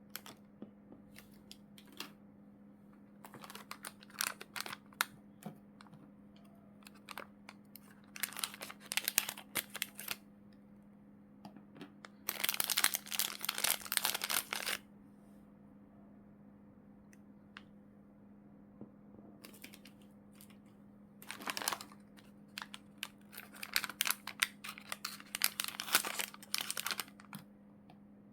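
Plastic packaging bags crinkling and rustling in irregular bursts as they are handled and opened. The longest, loudest stretch comes about halfway through, and a faint steady hum runs underneath.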